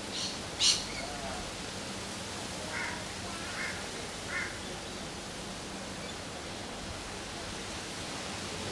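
Steady background hiss in the open air, with three short faint bird calls about a second apart, a few seconds in.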